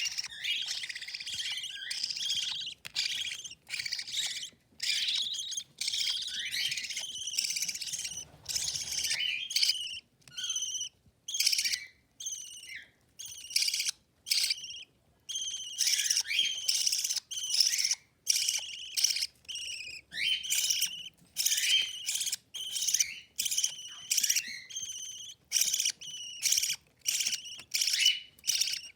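Budgerigar chicks giving rapid, repeated high-pitched begging chirps while their mother feeds them.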